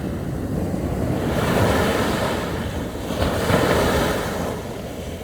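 Sea waves breaking and washing up the beach, the surf swelling once about a second in and again around three seconds in, then easing off near the end.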